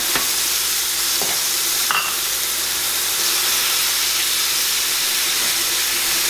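Diced onions sizzling steadily in hot oil in a frying pan as they are stirred with a spatula, the hiss of them just after going into the pan. A couple of light knocks near the start.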